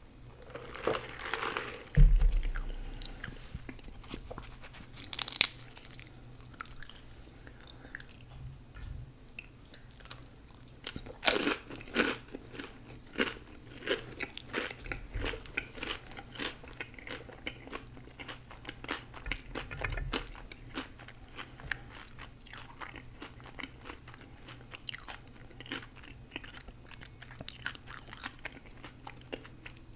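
A person biting and chewing crunchy food close to the microphone: a few loud crunching bites about 2, 5 and 11 seconds in, then steady chewing full of small crunches.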